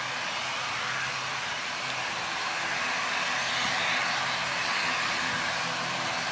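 Airliner passing low overhead: a loud, steady rush of engine noise with a low hum beneath, swelling slightly about four seconds in.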